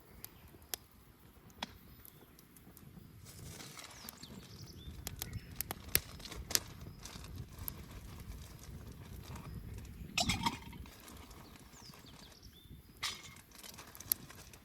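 Wood bonfire burning: a low rustle of flames with sharp crackles and pops scattered through it, the loudest a short burst of crackling about ten seconds in.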